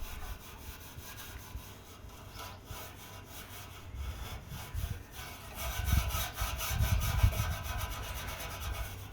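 Wire wool loaded with Autosol metal polish scrubbed back and forth on a car's metal exhaust tip, a repeated scratchy rubbing. It is faint for the first half and grows louder and more vigorous a little past the middle.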